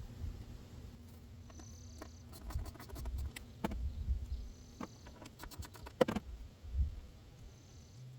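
Faint scattered clicks and taps of a ratchet and socket on metal, some in quick runs, as the throttle body's 10 mm bolts are worked out.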